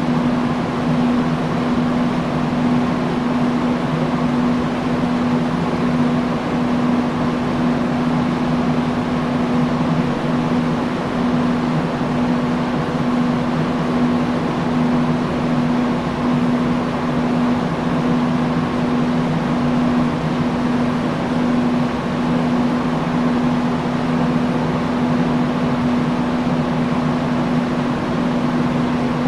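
Industrial fan running steadily: an even rush of air with a constant low hum.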